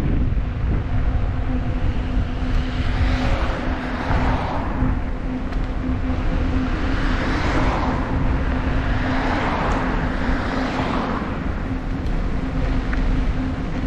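Wind and road rumble on a bicycle rider's camera, with a steady low hum under it. Passing cars add tyre noise that swells and fades three times, about three seconds in, around seven seconds and around ten seconds.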